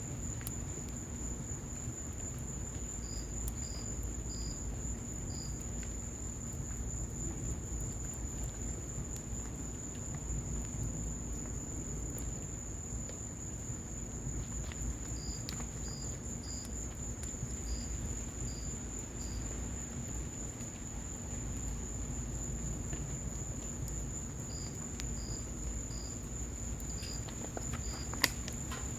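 Cricket trilling on one steady high note, with runs of short, slightly lower chirps, over a low rumble from a patio fireplace fire in the rain. Thin crackles throughout and one sharp pop about a second before the end.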